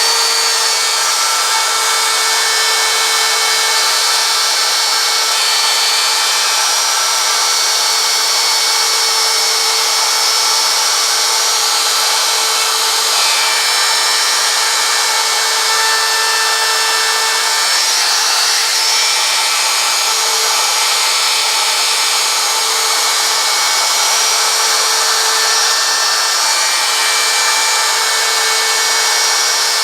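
Wood router running at full speed as it carves lines into a wooden sign: a steady, loud high-pitched whine whose pitch shifts slightly a few times as the bit takes the cut.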